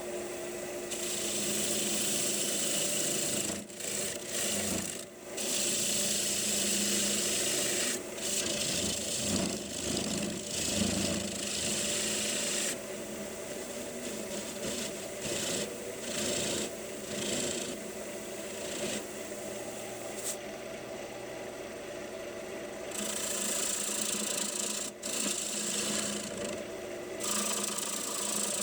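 A wood lathe running with a steady hum while a tool or abrasive rubs against a spinning maple bowl, giving a scratchy, rasping sound that comes and goes in passes of a few seconds.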